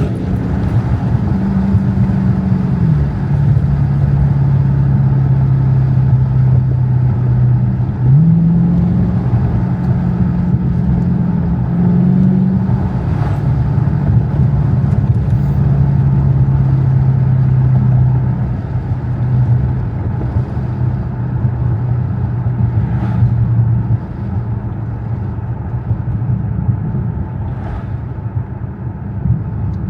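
Dodge Challenger Scat Pack's 392 (6.4-litre) HEMI V8 running while the car is driven through town. It is a steady engine drone that steps up and down in pitch a few times as the car speeds up and slows, then settles lower and quieter in the last part.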